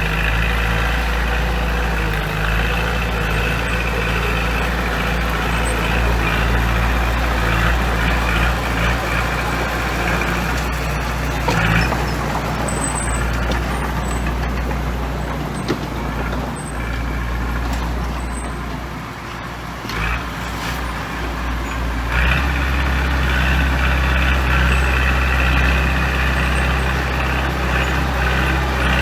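Heavy diesel engine of construction machinery running steadily. It eases off about two-thirds of the way through and picks up again soon after.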